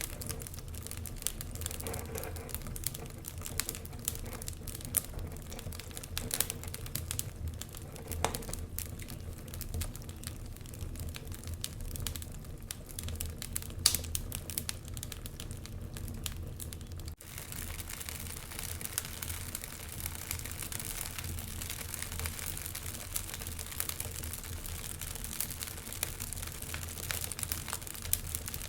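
Wood fire crackling in a fireplace: frequent small sharp pops and snaps over a low steady rumble, with one momentary drop in sound a little past halfway.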